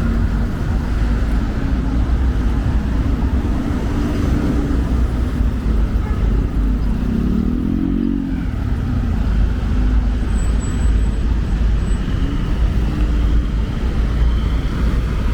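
City road traffic: a steady low rumble of passing cars, with an engine note rising and falling about halfway through.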